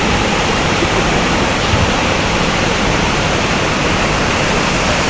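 Steady, loud rushing of falling water, like a waterfall.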